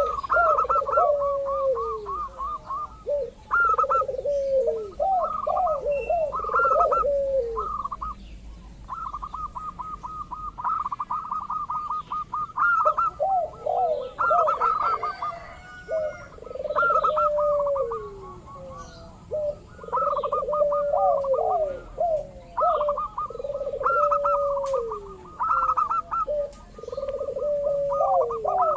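Zebra doves (local perkutut) cooing in repeated phrases: fast runs of staccato pulses overlap with lower, falling coo notes, with short pauses between bouts. It is a lure recording meant to make other turtle doves call back.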